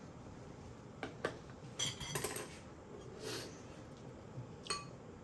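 A handful of light clinks and knocks of dishes and cutlery, some with a brief ring.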